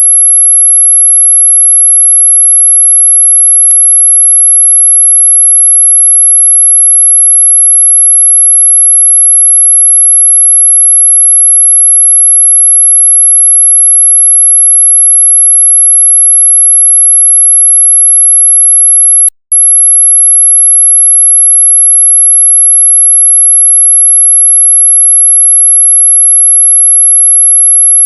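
A single steady, very high-pitched pure tone, played as a mosquito-repelling sound. It is audible rather than truly ultrasonic. It cuts out for a split second about 19 seconds in, then carries on unchanged.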